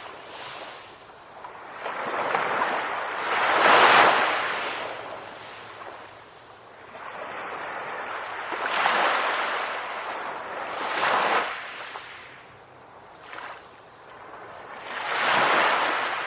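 Ocean waves breaking and washing up the shore, three big surges about every five to six seconds with quieter wash between.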